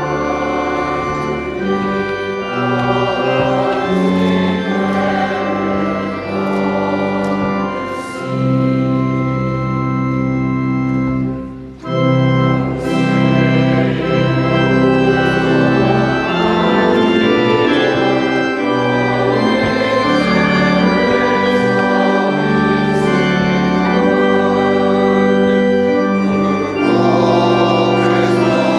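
Church organ playing slow sustained chords, with a brief break between phrases about twelve seconds in.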